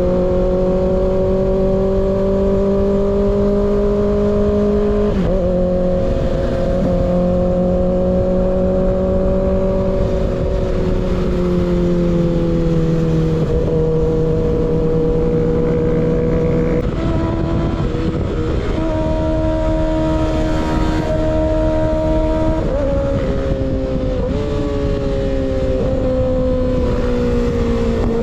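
Kawasaki ZX-6R inline-four engine through an unbaffled M4 GP19 slip-on exhaust, running at steady cruising revs. Its pitch steps down several times in the second half as the revs change, over a steady rush of wind.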